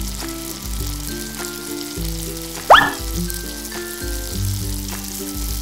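A frying sizzle over light background music, with the notes changing every half second or so. About three seconds in comes one short, loud rising whistle-like sweep.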